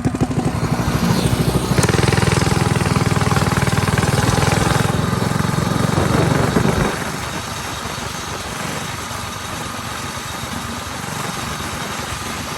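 Mini bike's small engine running hard at high revs while the bike spins donuts. About seven seconds in it drops away abruptly to a quieter, steady background.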